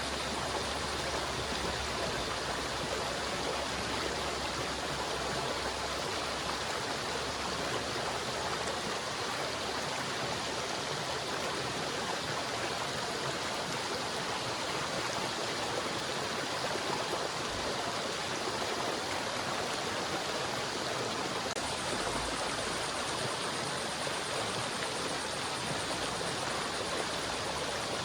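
River water flowing, a steady rushing with no breaks or pauses.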